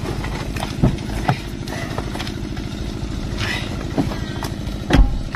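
Car engine idling steadily, with a few short knocks over it, the loudest about five seconds in.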